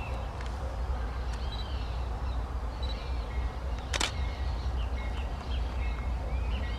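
Small birds chirping repeatedly over a steady low rumble, with one sharp click about four seconds in.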